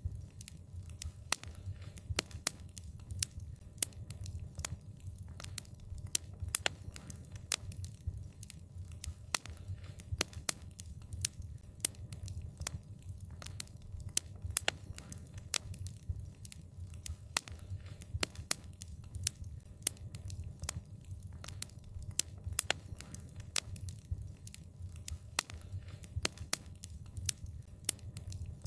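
Wood fire crackling: sharp irregular pops and snaps, several a second, over a low steady rumble of burning.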